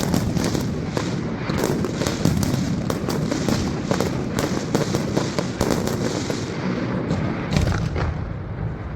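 Fireworks display: a dense, rapid string of bangs and crackling bursts, several a second, with the crackle thinning out a little near the end.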